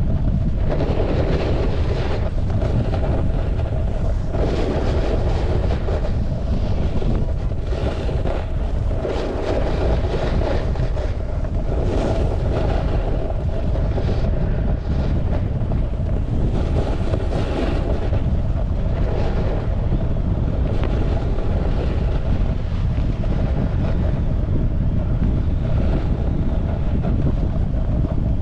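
Wind buffeting the microphone during a snowboard run, a steady low rumble, with the board scraping and hissing over the snow in swells every second or two as it turns.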